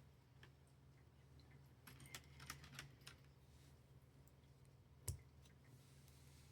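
Small plastic building bricks clicking as pieces are handled and pressed together: a cluster of light clicks about two to three seconds in, then one louder knock about five seconds in, over a faint steady hum.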